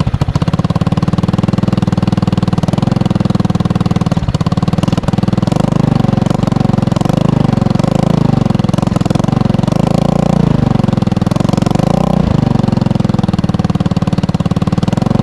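Honda Ruckus's swapped-in GY6 single-cylinder four-stroke scooter engine idling steadily through an aftermarket eBay exhaust with its silencer insert fitted, heard close to the exhaust outlet. Its pitch wavers slightly around the middle.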